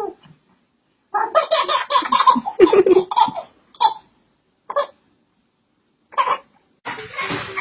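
A child laughing hard in a quick run of pulsed bursts for about two seconds, then a few short single laughs. Near the end a denser, noisier sound takes over.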